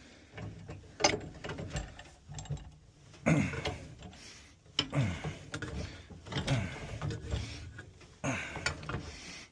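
Wrench tightening a threaded gas pipe fitting, making metal-on-metal creaks and clicks in about five separate strokes.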